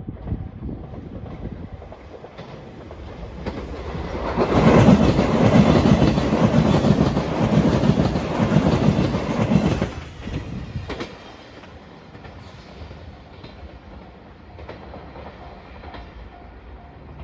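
Electric express train passing close by at speed. It builds up over the first few seconds, is loud with wheels clattering over the rail joints for about six seconds, then falls away about ten seconds in. A level-crossing bell rings faintly near the end.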